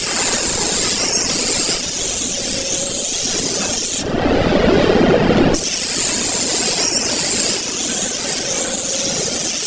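A loud, steady hiss like spraying or venting. It breaks off for about a second and a half near the middle, then resumes the same way.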